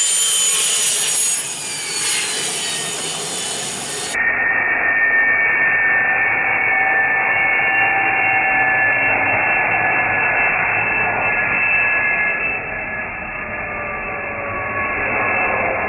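Tires squealing as a vehicle spins donuts: a loud, sustained high screech made of several held tones that waver slightly in pitch.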